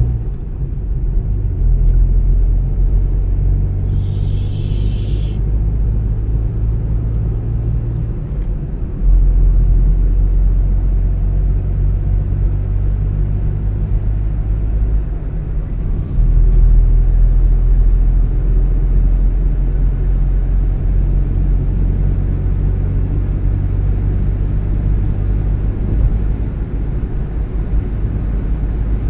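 A car being driven: steady low engine and road rumble that steps up in loudness about nine seconds in and again around sixteen seconds in, with a brief hiss about four seconds in.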